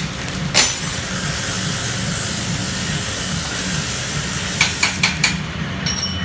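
CNC metal-cutting machine working on steel: a steady hiss over a low hum. A sharp click comes about half a second in, and a quick run of four clicks follows near the end.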